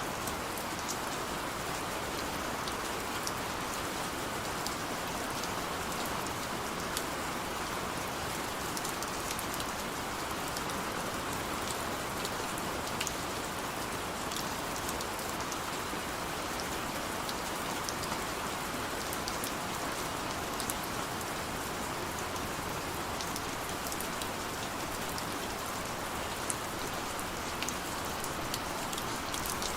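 Heavy rain falling steadily, an even hiss with many small drops pattering on a surface.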